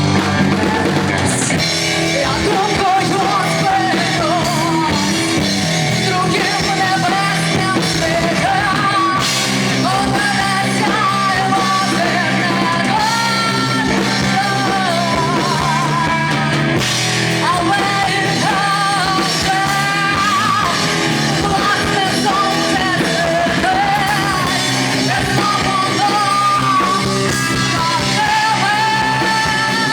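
Rock band playing the song, with drums, guitars and a wavering lead melody riding over them.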